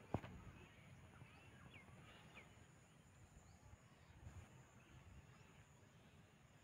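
Near silence, with a few faint, short bird chirps and a single click just after the start.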